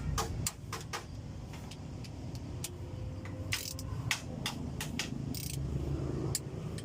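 Scattered sharp metallic clicks and clinks of a torque wrench and socket tightening the cylinder head bolts of an Isuzu 4BC2 diesel engine, with a couple of short rasps, over a low steady hum.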